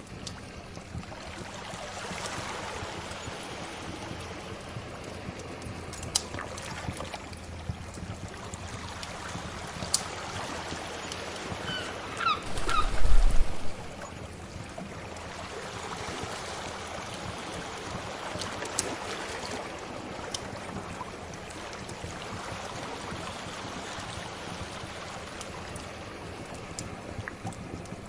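Sea waves washing in and receding in slow swells, with a wood fire crackling in sharp, scattered pops. About halfway through there is a louder low rumble lasting a second or two, with a few short high chirps over it.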